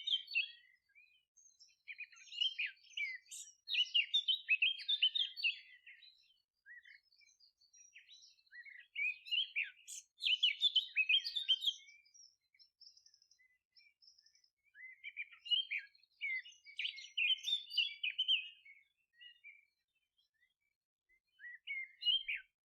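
Songbirds singing: rapid twittering, chirping phrases in bursts of a few seconds with short pauses between them.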